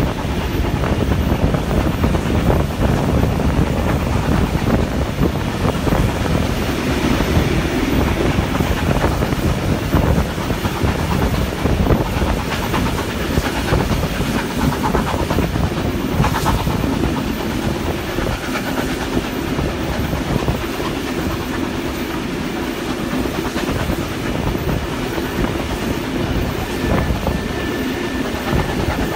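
Steam-hauled passenger train running steadily, its carriage wheels rumbling and clicking over the rails, heard from an open carriage window.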